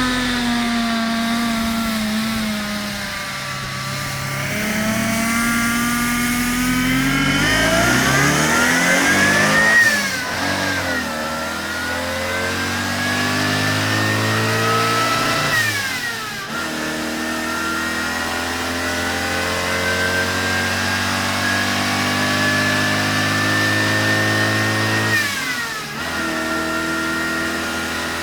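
Modified 850cc air-cooled flat-twin 2CV engine in a Burton car, pulling away and accelerating through the gears. Its pitch climbs and then drops sharply three times, once at each shift.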